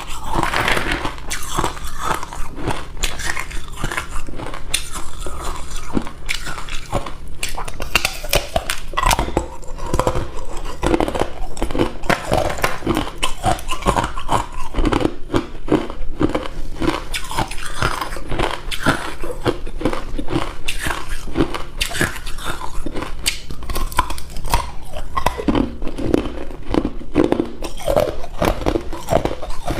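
Hard cube ice being bitten and chewed close to the microphone: a continuous run of loud, rapid crunches.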